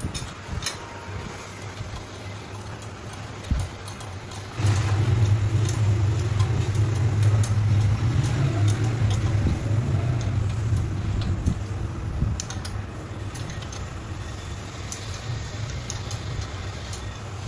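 A machine running with a steady low hum that gets clearly louder about four and a half seconds in, with scattered light metallic clicks.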